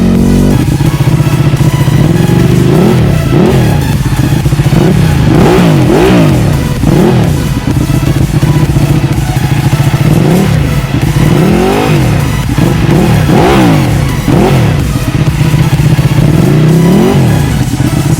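Ducati 1299 Panigale's L-twin engine through a full titanium Akrapovič exhaust, idling and being blipped in about a dozen quick revs, each rising sharply and falling back to idle.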